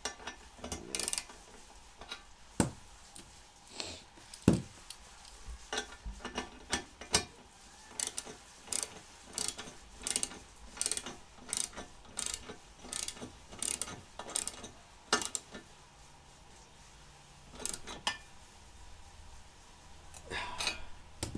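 Socket ratchet clicking as a bolt is tightened with a 5/8-inch socket: uneven strokes at first, then a steady stroke about every 0.7 seconds for several seconds, stopping a few seconds before the end.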